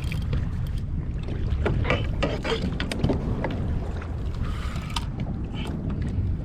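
Steady low rumble of wind buffeting the microphone on a fishing kayak at sea, with scattered light clicks and knocks.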